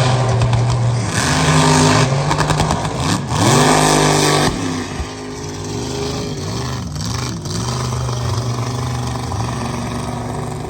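Mega mud truck engine revving hard, its pitch climbing about three to four seconds in. It then drops quieter and rises and falls a few times before running steadier.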